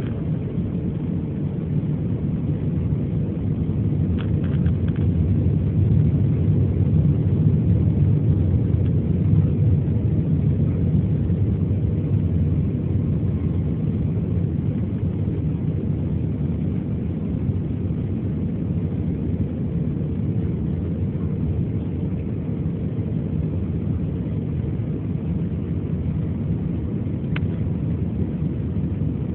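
Steady low rumble of an Airbus A321 on approach heard from inside the cabin: engine and airflow noise, swelling slightly a few seconds in and then holding level.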